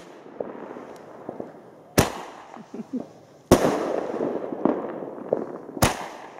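Fireworks going off: three sharp bangs, about two seconds in, about three and a half seconds in and near the end, each dying away over a second or so.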